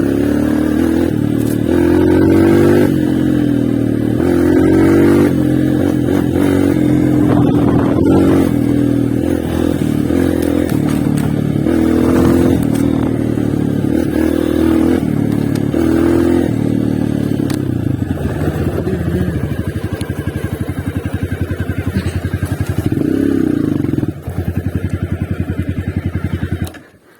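Honda CRF230 trail motorcycle's single-cylinder four-stroke engine running under changing throttle, its pitch rising and falling, then settling to a slower, evenly pulsing idle for the last few seconds and cutting off abruptly just before the end.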